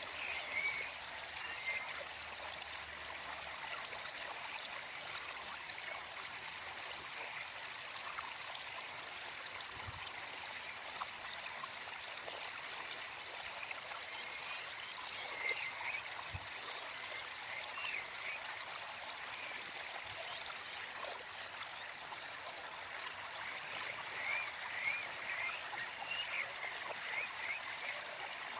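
Small forest stream flowing steadily, with birds chirping in the background: runs of quick chirps near the start, around the middle and again towards the end, and a few short high notes in between.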